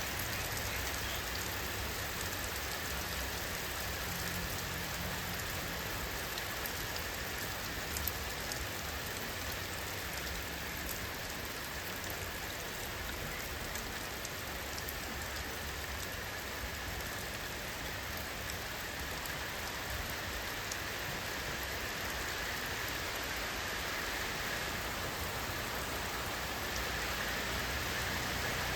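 Steady rainfall: an even hiss of rain, with scattered sharper ticks of drops hitting a surface.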